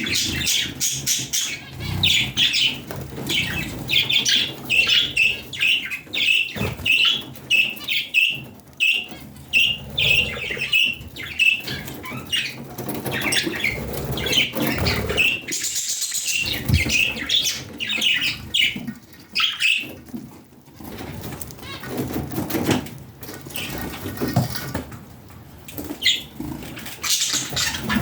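Pet budgerigars chirping in quick runs of short, high notes, mixed with short rustling noises. The chirping thins out after about twenty seconds.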